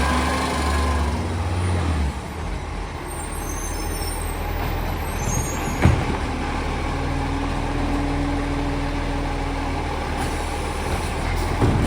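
Garbage truck's diesel engine running steadily, with a single sharp knock about six seconds in and a faint steady hum for a few seconds after it.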